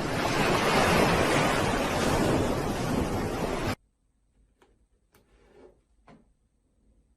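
A steady rushing noise, like surf or wind, that cuts off abruptly after about three and a half seconds, followed by a few faint taps.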